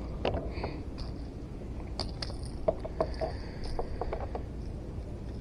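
Scattered light clicks, taps and rustles of hands, fish grabbers and treble hooks as a small bass is worked free of its hooks.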